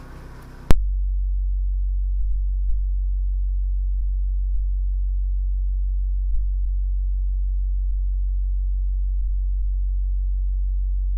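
Steady low hum with a few faint clicks. It starts abruptly with a click just under a second in, after a brief stretch of hiss.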